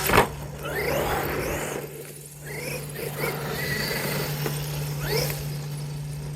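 Large radio-controlled car running through grass, its motor whine rising in pitch a couple of times as it speeds up.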